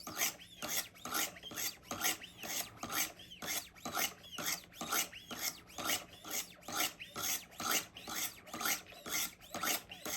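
Coarse 100-grit stones of a Wicked Edge Go guided sharpener stroked along a knife edge, about three scraping strokes a second, each rising and falling briefly in pitch: working off the burr raised by the coarse stones.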